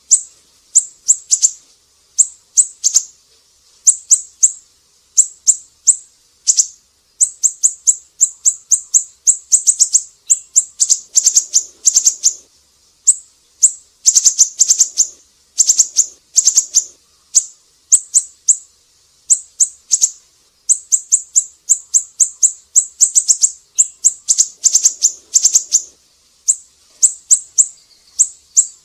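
Siri-siri bird singing in full voice: quick runs of sharp, very high-pitched chirps, phrase after phrase with short pauses between.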